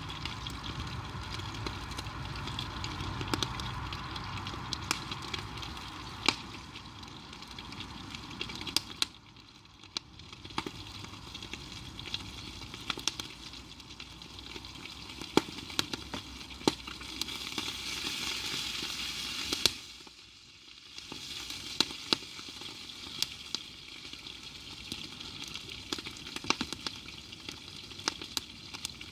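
Food sizzling in a pan over a wood campfire, with frequent sharp crackles and pops from the fire. The sizzle drops away briefly twice.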